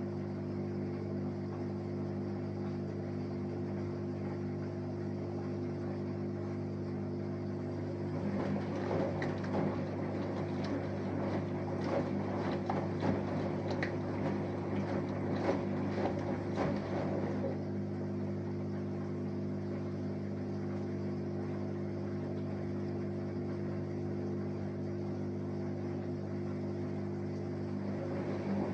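Samsung Eco Bubble washing machine with an inverter motor running a wash: a steady hum, with a stretch of noisier churning of laundry and water in the drum from about eight seconds in until about seventeen seconds.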